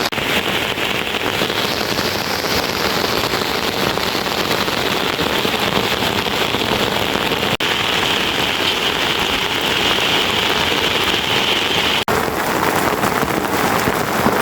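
Steady rain falling, an even hiss, broken by two very brief dropouts about seven and a half and twelve seconds in.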